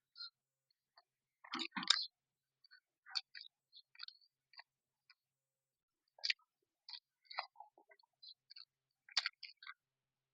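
A person chewing food close to the microphone: irregular wet mouth clicks and lip smacks, with a louder cluster about a second and a half in.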